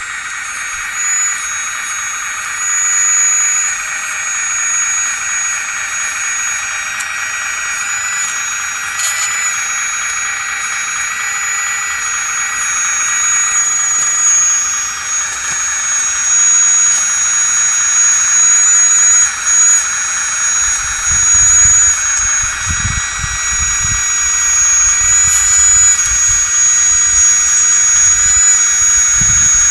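Electric hydraulic pump of a 1/16-scale RC wheeled excavator running with a steady high-pitched whine, its pitch stepping slightly as the load changes. Low rumbling joins in during the second half.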